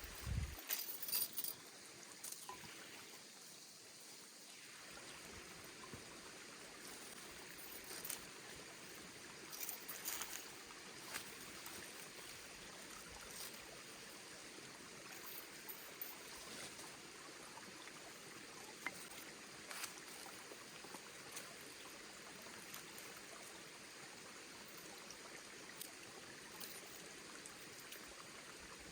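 Forest stream running steadily, with a few short knocks and clicks over it, the loudest in the first couple of seconds.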